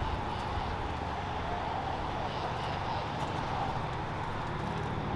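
A car engine running steadily, a low even rumble with no revving.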